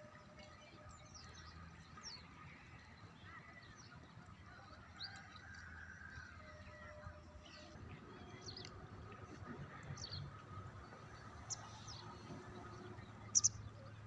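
Birds chirping: scattered short, high calls over a faint steady outdoor background, with one louder chirp near the end.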